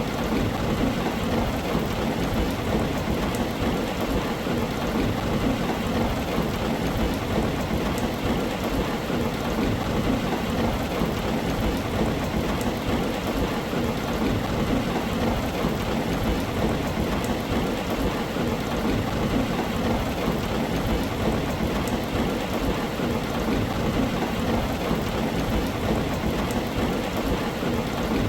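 Steady heavy rain falling on a tin roof, with a continuous low rumble of thunder underneath.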